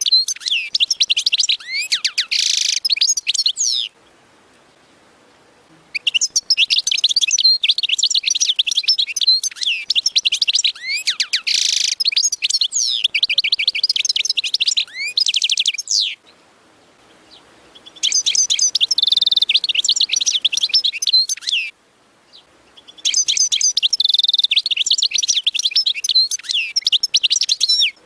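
A small finch singing: long phrases of rapid twittering chirps and trills, four phrases in all with pauses of about two seconds between them.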